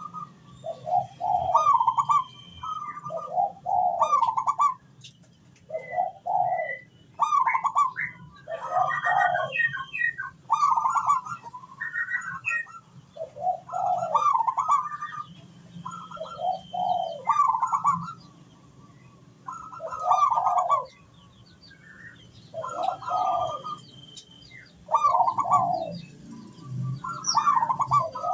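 Zebra dove (perkutut) cooing, about a dozen rolling coo phrases of a second or so each, one every couple of seconds.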